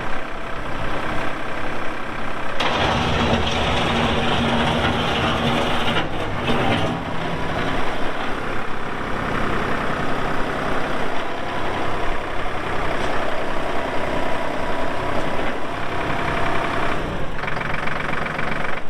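Massey Ferguson 4608 tractor's diesel engine running steadily. It gets louder about two and a half seconds in and stays up, with small shifts in the sound later on.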